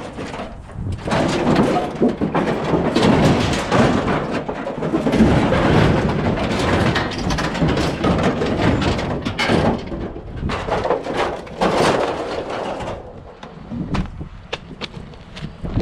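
Objects being handled and shifted about: dense clattering, scraping and knocking for most of the stretch, thinning to a few separate knocks and clicks near the end.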